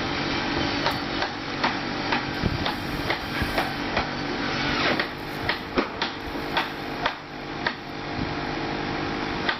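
Irregular sharp clicks and knocks of hard objects over a steady mechanical hum, the knocks coming closer together about halfway through.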